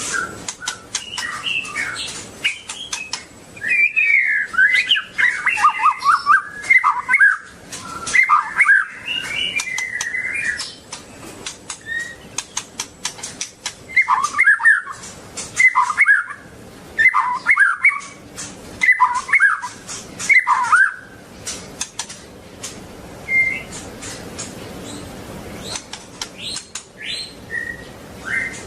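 White-rumped shama (murai batu) singing: a long run of varied, fast warbling phrases for about ten seconds, then six similar short phrases about once a second, then scattered single notes. Many sharp clicks run throughout.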